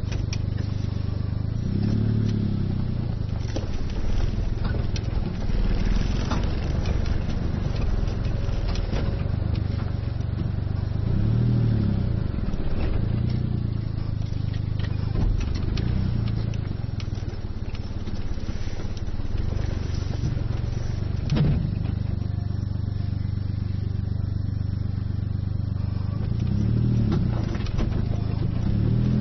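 Suzuki Jimny JA22's small three-cylinder turbo engine running steadily while driving off-road, swelling in pitch with the throttle several times, with scattered knocks and rattles over it.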